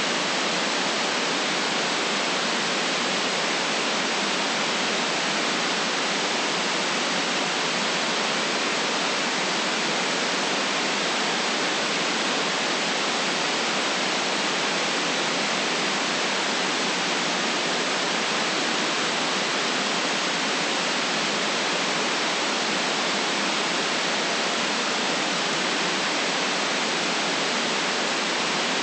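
Steady white noise: an even hiss with no rhythm, events or change in level, cut off sharply below the low bass and above the top treble.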